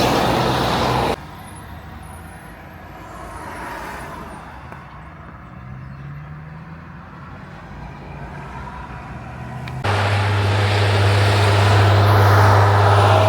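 Heavy trucks' diesel engines running, heard in three spliced clips with abrupt cuts about a second in and near ten seconds in. The quieter middle stretch carries a faint engine note that rises and falls. The last stretch is a loud, steady, low engine drone.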